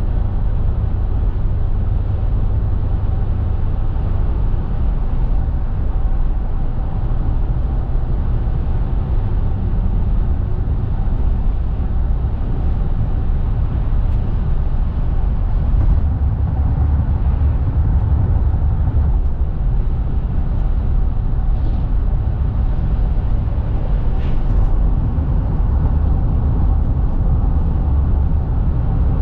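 Car driving, a steady low road and tyre rumble, with a few faint ticks in the second half.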